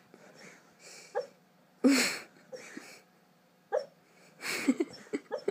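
A sleeping puppy breathing, with two short high squeaks, about a second in and near four seconds, and louder huffing breaths around two seconds and four and a half seconds.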